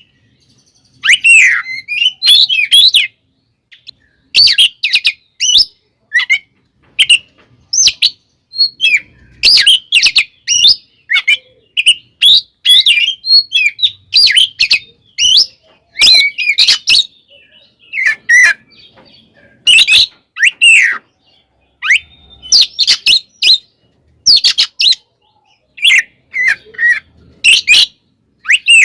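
Oriental magpie-robin (kacer) singing in the aggressive, fighting-mode style: loud, rapid phrases of sharp whistles, glides and chattering notes, broken by short pauses.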